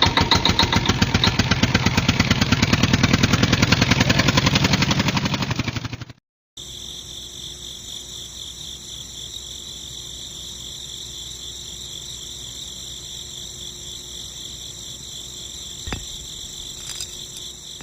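Small electric motor of a homemade toy tractor running with a loud, fast rattling clatter, stopping abruptly about six seconds in. A quieter steady high-pitched pulsing trill follows, with a single knock near the end.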